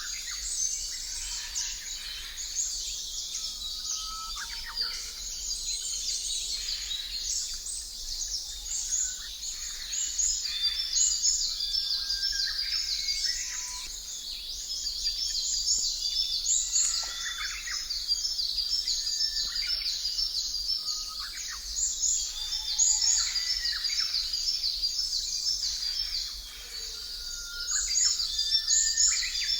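Many birds chirping and calling together in a dense, continuous chorus, with occasional lower whistled notes.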